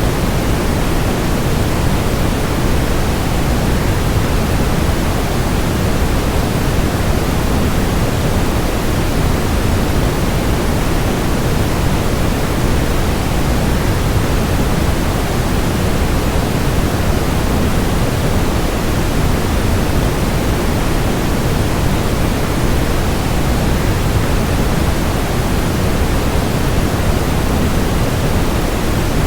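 Waterfall rushing as a steady, unbroken noise, heaviest in the low end, with no changes or separate sounds.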